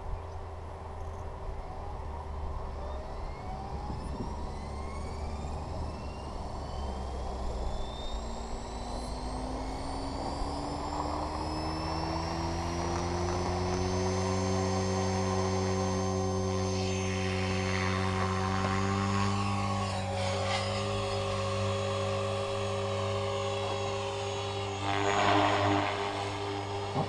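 Align T-Rex 500 electric RC helicopter spooling up: the motor and rotor whine rises steadily in pitch for about twelve seconds, then holds at a steady pitch once the rotor is up to speed. There is a brief noisy surge near the end.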